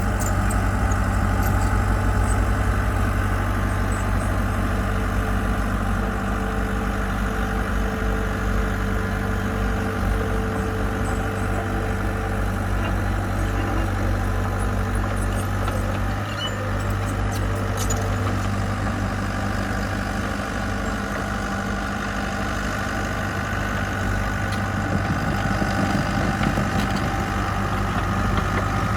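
Diesel engine of heavy construction equipment running steadily with a low, even hum.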